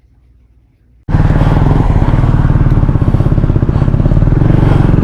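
Motorcycle engine running at a steady idle, close and loud, with an even stream of rapid firing pulses. It comes in suddenly about a second in.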